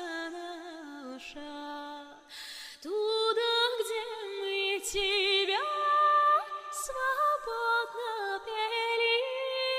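Background music: a solo singing voice carrying a slow, wordless melody with a wavering vibrato, with no visible accompaniment.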